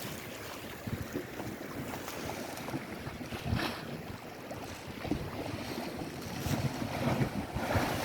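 Lake waves washing ashore, with louder surges about halfway through and near the end, and wind buffeting the microphone.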